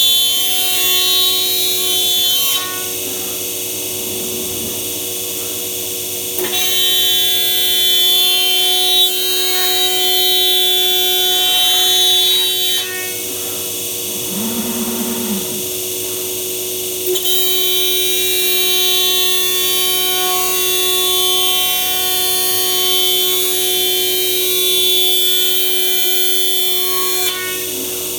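The high-speed spindle of a MAKA 5-axis CNC machining centre whines steadily while it cuts plastic mouldings. The cutting gets louder and hissier in three long stretches: one at the start, one from about six to thirteen seconds in, and one from about seventeen seconds to near the end.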